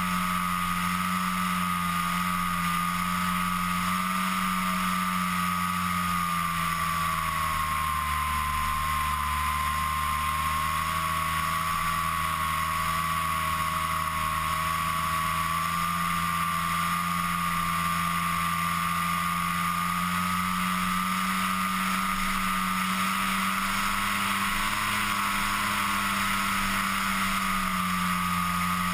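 FPV model aircraft's electric motor and propeller running steadily in flight, a high whine over a lower hum with wind hiss. The pitch sags a little in the middle and comes back up.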